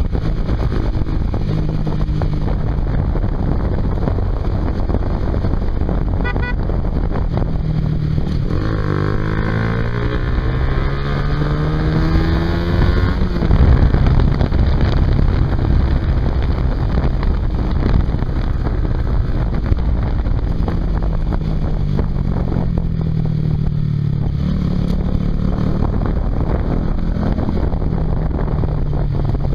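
Honda CBR150R's single-cylinder engine running through a Yoshimura aftermarket exhaust while riding, under heavy wind noise on the microphone. About nine seconds in the engine revs up with a rising pitch that peaks a few seconds later, and it rises again more gently past the twenty-second mark.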